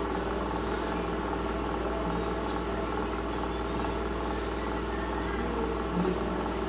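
A steady machine hum with a low buzzing drone that does not change.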